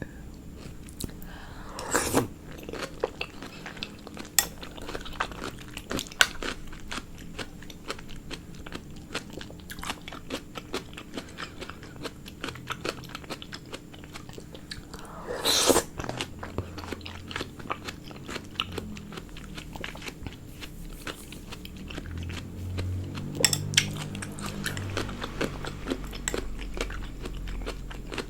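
Close-miked eating sounds: biting and chewing food, with many small crunchy, wet clicks and a few louder bites.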